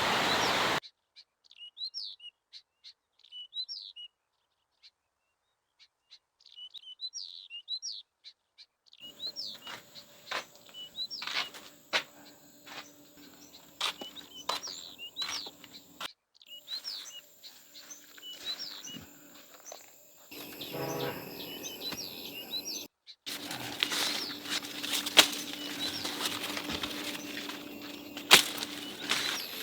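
Small birds chirping in quick, short gliding notes. From about a third of the way in, sharp knocks and clicks join the chirps, with a few abrupt cuts in the sound.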